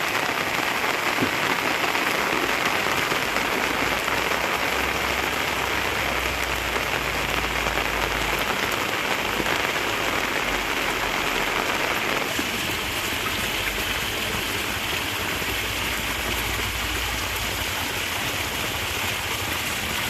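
Steady heavy rain falling, a dense even hiss, easing slightly about twelve seconds in.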